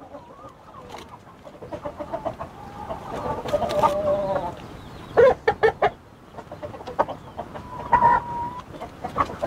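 Chickens clucking and calling during a fight between three roosters, with a held call near the end. About five seconds in comes a quick run of sharp scuffling noises.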